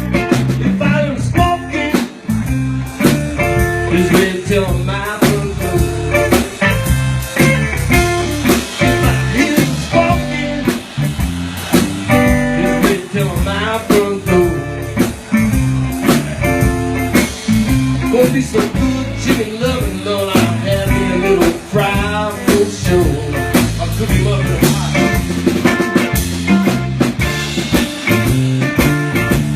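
Blues band playing an instrumental break: a guitar lead with bending notes over a drum kit beat.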